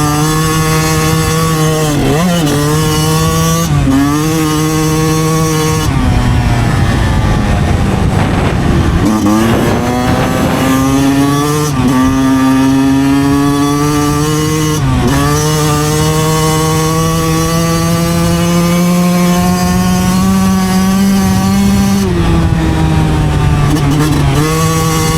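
Two-stroke single-cylinder engine of a 2009 Yamaha YZ125 dirt bike pulling steadily, with short dips in pitch at gear changes. About six seconds in the revs fall away as the throttle eases off. They then climb again and the bike shifts up through the gears.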